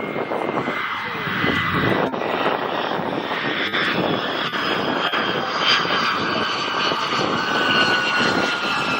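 Jet aircraft engines running, a steady rush with a high whine that slowly falls in pitch.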